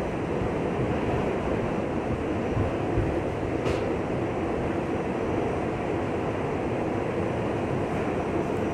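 R68 subway car running through a tunnel, heard from inside: a steady rumble of wheels on rail. There is one brief sharp click about three and a half seconds in.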